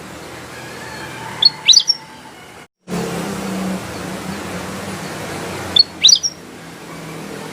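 Kutilang emas bulbul giving two short bursts of sharp, high chirps, the first about one and a half seconds in and the second about six seconds in, over a steady low hum of background noise.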